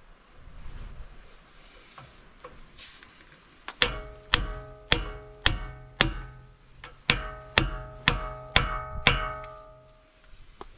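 Hammer blows on metal seating a freshly oiled seal in the axle housing: two runs of five sharp, ringing strikes, about two a second.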